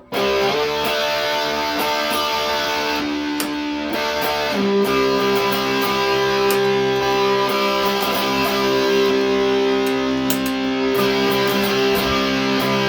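Electric guitar through a Big Muff fuzz pedal boosted by a Tube Screamer overdrive, playing sustained distorted notes, with a change to a new held chord about four and a half seconds in.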